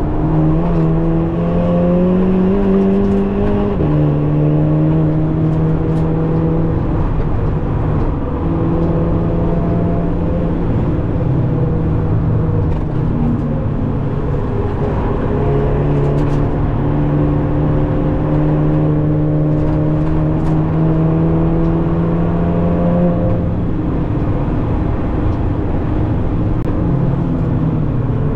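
Cabin sound of a hard-driven 2017 VW Golf 7.5 GTI Performance with a tuned 2.0-litre turbo four-cylinder EA888 engine and DSG gearbox: engine note rising under acceleration and dropping sharply at quick gear changes, about four seconds in and again about three quarters through, over steady tyre and road noise.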